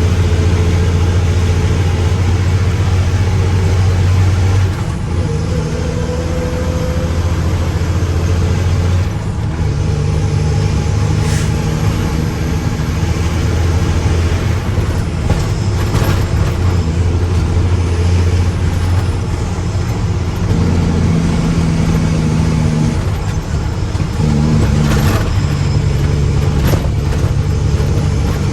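Mack truck's diesel engine running steadily, its pitch stepping down about five and nine seconds in and shifting up and down again later. A few short sharp sounds cut through it.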